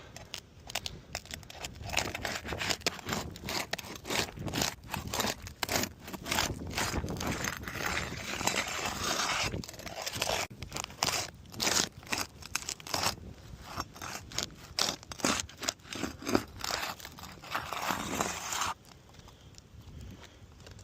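Asphalt roof shingles being pried up and broken loose from their sealant strip: irregular scraping, crunching and crackling with sharp clicks. It stops suddenly about two seconds before the end.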